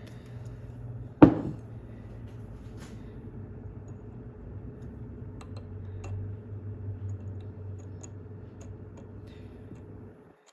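Tools being handled on a workbench: one sharp knock about a second in, then faint clinks and small clicks over a steady low hum.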